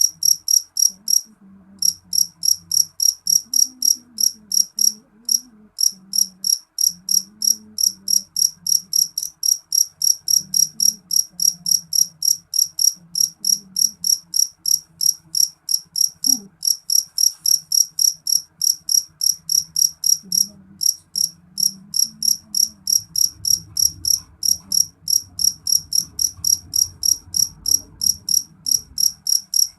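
A cricket chirping in a steady, even rhythm of about three high-pitched chirps a second, pausing briefly twice in the first few seconds.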